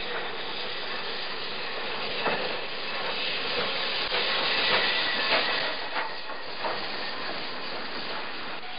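Train rolling past: a steady rushing noise with irregular clanks and clacks from the wheels and cars, loudest around the middle.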